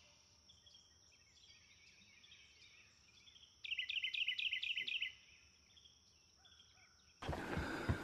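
A songbird sings one short phrase of quick repeated chirps, about five or six a second, about three and a half seconds in, over a faint steady high whine. Near the end a sudden rush of noise with a few knocks cuts in.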